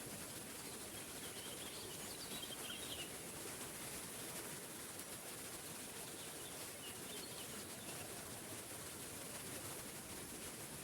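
Waterfall rushing steadily. A few faint bird chirps come through, first a couple of seconds in and again about seven seconds in.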